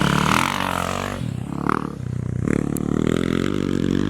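Engine of an off-road racing motorcycle or quad running hard: its pitch falls over the first second, eases off, then revs up again about two and a half seconds in.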